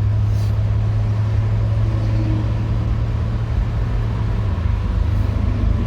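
Inside the cab of a 32-year-old squarebody pickup cruising at highway speed, about 70 mph: a steady low drone from the engine and road, with wind noise over it.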